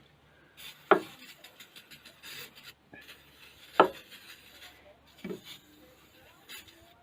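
Hands-on work sounds: two sharp knocks about three seconds apart and a softer third, each ringing briefly, with scraping and rubbing between.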